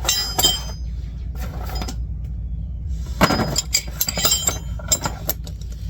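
Metal hand tools clinking against each other and against metal, a scatter of sharp, ringing clinks while getting ready to undo the idler-arm mounting bolts.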